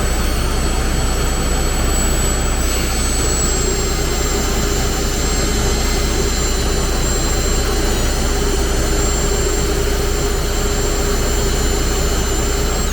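Freightliner Columbia semi truck's diesel engine running steadily at idle, heard close up, with a constant high whine over the drone. A second steady tone joins about three seconds in.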